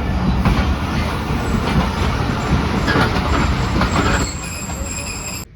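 Passenger train running at speed, its wheels clattering over the rails, with a high steady whine joining about four seconds in. The sound cuts off suddenly just before the end.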